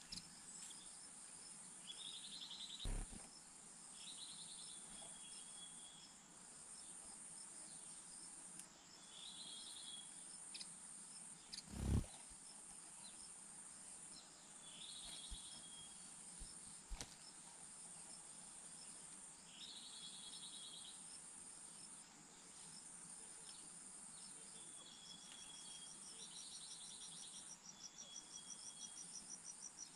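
Crickets and other insects chirping, a steady high drone. Short buzzy chirps come every few seconds, and a fast pulsing chirp starts near the end. There are a few faint knocks, the loudest about twelve seconds in.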